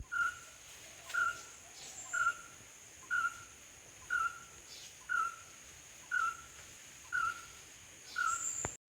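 A bird repeating one short, slightly falling call note about once a second, nine times in a row, over a steady high-pitched whine.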